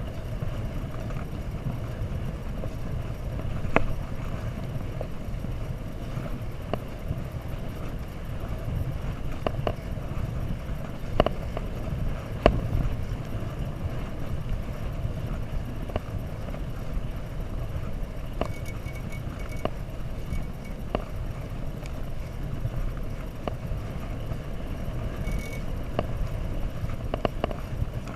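Steady low wind and road rumble on a GoPro HERO3's microphone while riding a bike, with scattered short clicks and knocks.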